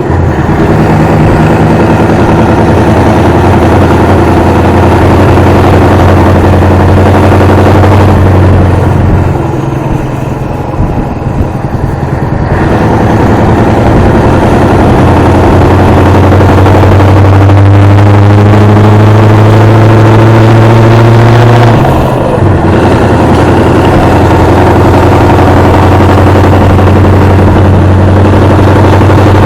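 Scania 143's 14-litre V8 diesel engine running loud and steady, its note easing off about nine seconds in, then climbing in pitch as the revs rise, with a short dip around twenty-two seconds before it settles again.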